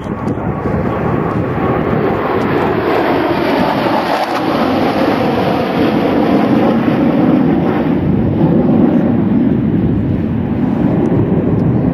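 Jet noise of Su-27 fighters flying a low aerobatic display, a steady rush that grows louder as the aircraft pass.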